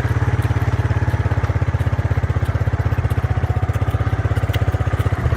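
Small engine of a bike running steadily under way, a rapid even putter of firing pulses close to the microphone.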